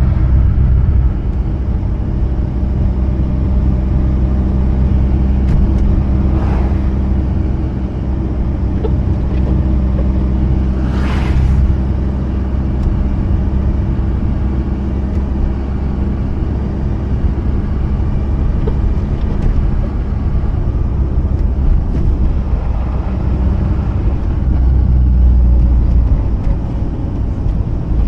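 Mazda RX-8's rotary engine running steadily at cruise with road noise, a low even drone. Two brief whooshes rise over it, about six and eleven seconds in.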